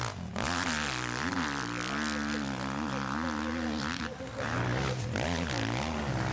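Motocross bike engines running hard on the track, the revs rising and falling again and again as the riders throttle, shift and ease off over the terrain.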